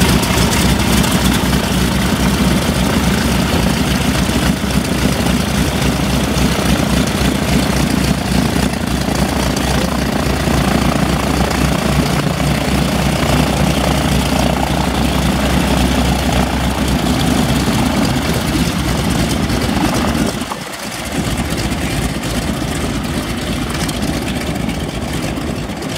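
A Boeing PT-17 Stearman biplane's Pratt & Whitney R-985 Wasp Junior nine-cylinder radial engine and propeller running steadily and loud. A little after twenty seconds in, the sound dips sharply for a moment, then carries on slightly quieter.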